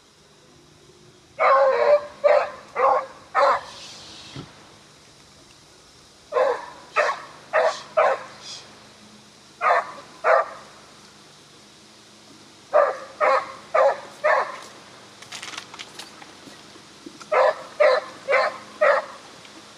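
A dog barking in short bursts of about four barks each, half a second apart, with pauses of a few seconds between bursts.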